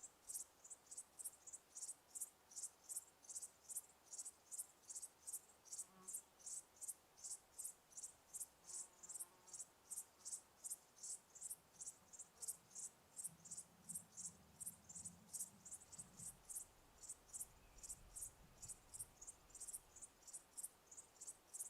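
Cricket chirping steadily, a short high-pitched chirp repeated about two to three times a second.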